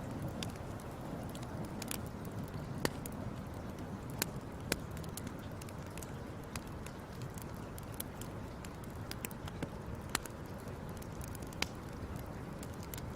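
Wood fire crackling: a steady low rush of burning with sharp pops and snaps at irregular moments, a handful of them louder than the rest.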